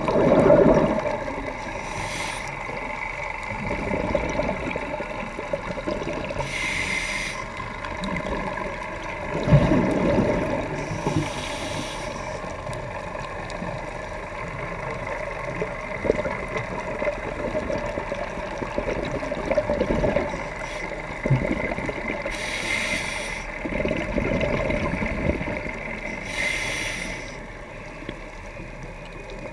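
Scuba diver breathing through a regulator underwater: exhaled bubbles rush out in bursts of about a second, five times, a few seconds apart, over a steady underwater hiss and rumble.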